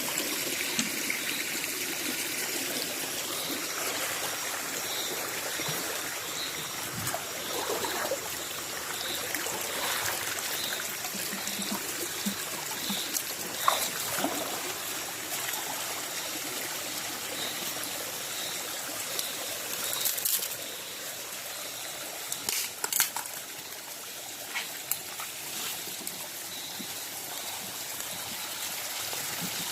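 Shallow forest stream trickling and running over rocks, with a faint high chirp repeating about every two-thirds of a second and a few sharp clicks about two-thirds of the way in.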